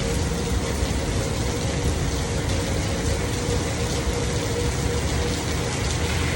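Thunderstorm rain falling steadily and heavily, with a constant low rumble and a faint steady hum underneath.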